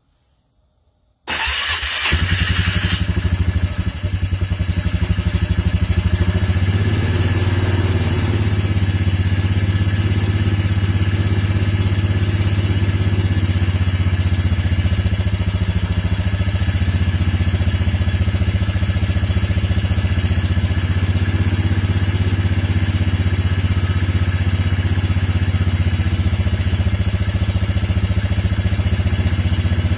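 Motorcycle engine cold-started: it is cranked over about a second in, fires, runs unevenly for a few seconds, then settles into a steady idle.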